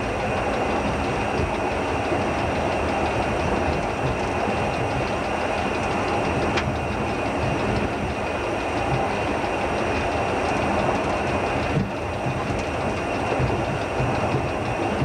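Train running along the line as heard from the locomotive cab: a steady rumble of the locomotive and its wheels on the rails, with a short dip in loudness near the end.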